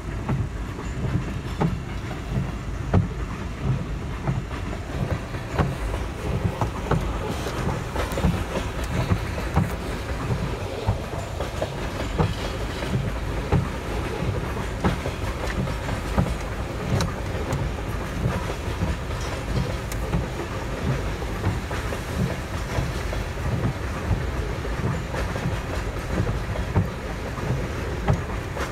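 Freight cars of a loaded coal train rolling past, a steady low rumble with a constant run of wheel clicks over the rail joints, heard from inside a car with the side window partly down.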